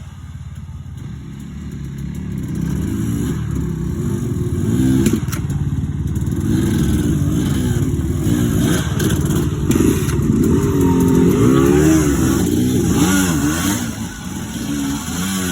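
Dirt bike engine revving up and down with the throttle. It grows louder over the first few seconds, then stays loud, with a few sharp knocks about five seconds in.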